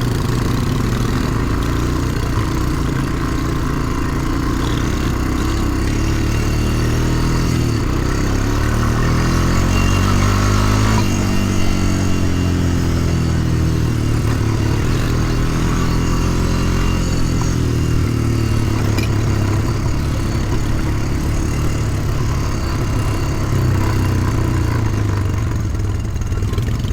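ATV engine running under changing throttle while being ridden, its pitch rising and falling several times.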